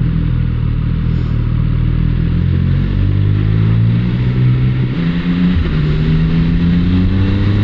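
A borrowed 1200 cc motorcycle engine pulling under acceleration, its pitch climbing steadily. About five seconds in the pitch changes abruptly, as at a gear change, then climbs again.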